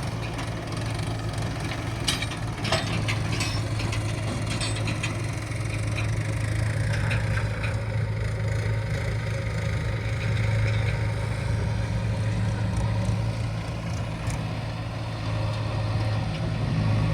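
Heavy diesel earthmoving machinery running steadily with a low, even engine hum, with scattered knocks and clanks, several of them close together about two to three seconds in.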